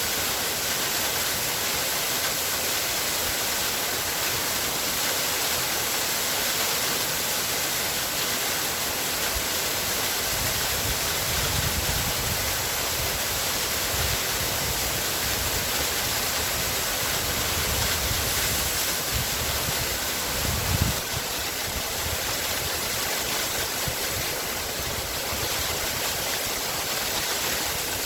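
Waterfall: a steady, even rush of falling water, with a brief low bump about three quarters of the way through.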